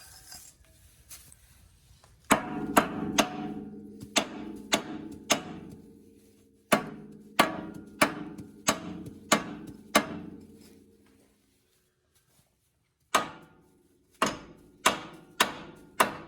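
Hammer blows on a nut threaded onto a ball joint stud, driving the stud out of the steering knuckle without a pickle fork. Three runs of sharp metal strikes, about two a second, with a pause before the last run; the steel parts ring on after each run.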